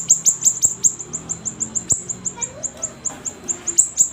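Siri-siri songbird singing a rapid string of short, high, thin notes, each dropping sharply in pitch, about seven or eight a second.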